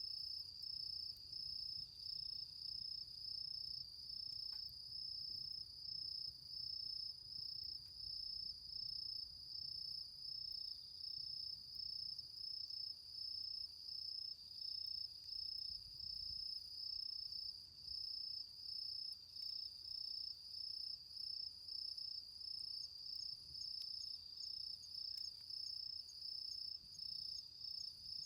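A cricket singing a steady high trill, broken by short regular pauses about once or twice a second.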